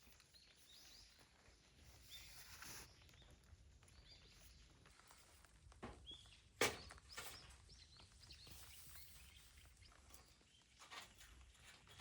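Wood fire burning quietly in a fire pit, with a few sharp crackles and pops, the loudest about six and a half seconds in.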